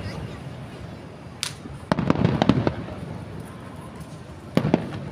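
Aerial fireworks bursting in rapid flurries of sharp bangs: a brief hiss about a second and a half in, a burst of bangs just after it, and another burst near the end, with rumbling echo between.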